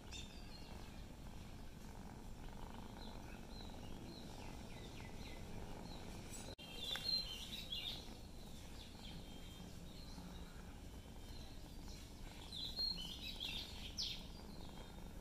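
Small birds chirping intermittently over a steady low background hum, with busier bursts of short high chirps about halfway through and again near the end.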